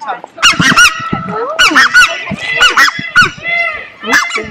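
Geese honking loudly and repeatedly, several calls overlapping one another.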